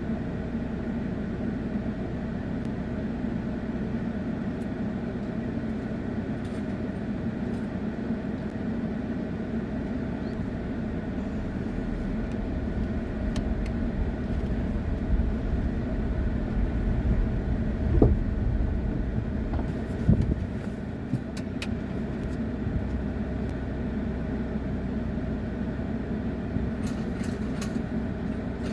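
Haval Jolion's engine running steadily at idle, with two sharp thumps about two-thirds of the way through and a few light clicks.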